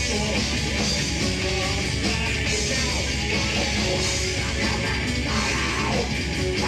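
Heavy metal band playing live: distorted electric guitars over fast, dense drumming.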